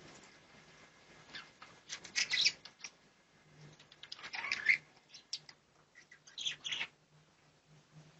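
Budgerigars fluttering their wings, in three short bursts of flapping a couple of seconds apart.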